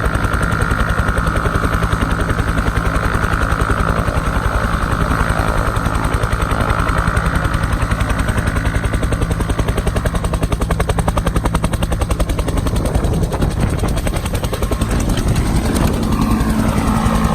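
Turbine helicopter running close by, with a rapid, steady thumping of its rotor blades and a high turbine whine that fades out about halfway through. Near the end a lower hum and some shifting tones come in.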